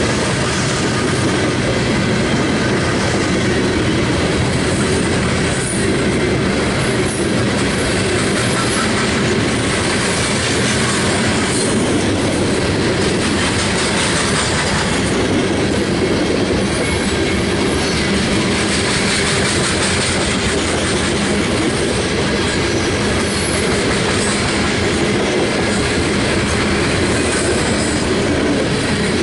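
Freight train cars rolling past on the rails, a steady, loud run of wheel and rail noise.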